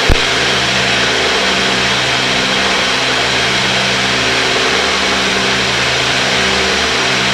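Cessna 310's twin piston engines and propellers droning steadily, heard through the cockpit intercom audio. There is a short click just at the start.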